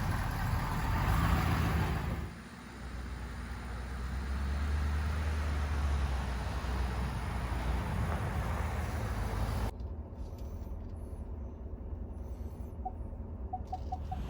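A motor vehicle's engine running with a steady low rumble. The sound changes abruptly about two seconds in and again near ten seconds.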